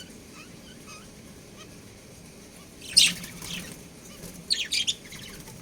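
Budgerigars chirping: soft short chirps, then a loud harsh squawk about three seconds in and a quick run of sharp chirps near the end.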